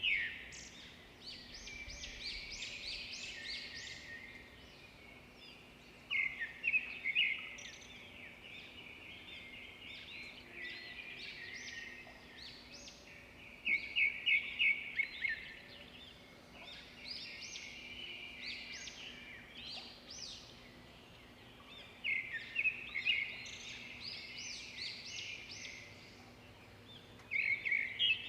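A songbird singing in repeated phrases. Each phrase opens with a run of quick, sharp notes and goes on into quieter warbling, and a new phrase starts every six to eight seconds.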